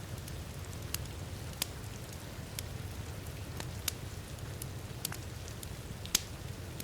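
Wood fire crackling in a fireplace, with a sharp pop every second or so, over the steady rush of heavy rain.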